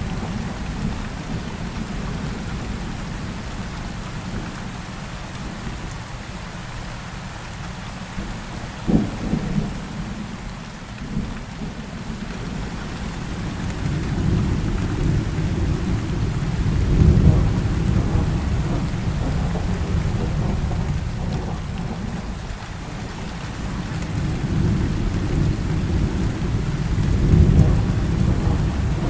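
Heavy rain falling in a steady hiss, with thunder rumbling underneath. A couple of short sharp cracks come about a third of the way in, and two long rolls of thunder swell and fade, one in the middle and one near the end.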